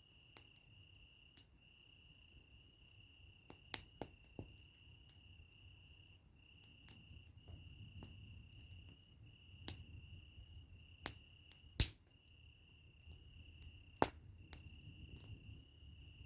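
Wood fire crackling: sparse, irregular sharp pops, the loudest about two-thirds of the way through, over a steady high-pitched whine that breaks off briefly every few seconds.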